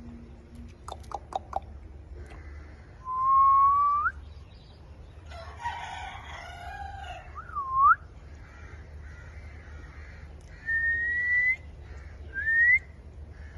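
Ringneck parrot whistling: separate clear rising whistles, the longest about 3 s and about 11 s in, with a rougher, scratchy call in between and a few faint clicks near the start.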